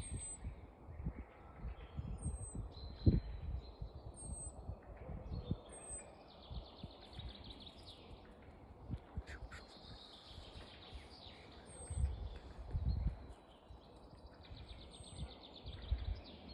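Small birds singing: a thin, very high note that drops in pitch, repeated every second or two, over faster trilled phrases. Low muffled thumps come and go, the loudest about three seconds in and again around twelve to thirteen seconds.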